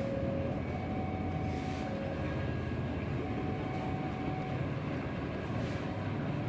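Distant diesel-hauled local train approaching: a steady low rumble with faint brief whining tones now and then.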